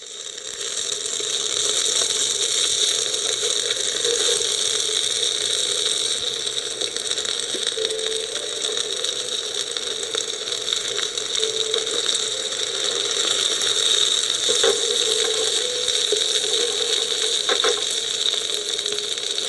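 Meat sizzling on a hot grill pan: a steady frying hiss with faint scattered crackles, fading in over the first couple of seconds.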